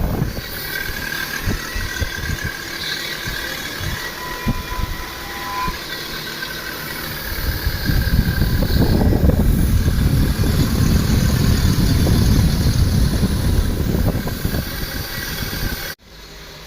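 Machine running with a dense mechanical rumble and a few faint steady tones, louder from about halfway through, then cutting off abruptly near the end.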